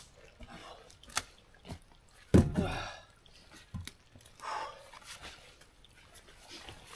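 Building pieces being knocked and set into place: scattered sharp knocks, one heavy thud about two and a half seconds in with a short rattle after it, and a brief scrape near the middle.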